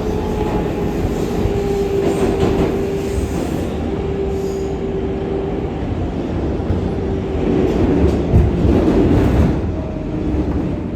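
R188 subway train running on the rails, heard from inside the car: steady wheel and track rumble with a motor whine whose pitch sinks slowly as the train slows on its approach to the terminal.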